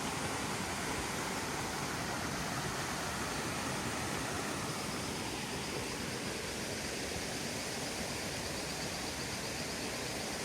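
Steady rushing of running water from a small stream, with a faint rapid high ticking over it from about halfway through.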